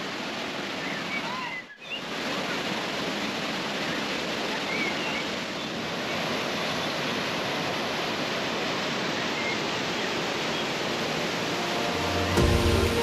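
Usri waterfall, falling water making a steady, even rush. A short break about two seconds in, and music comes in near the end.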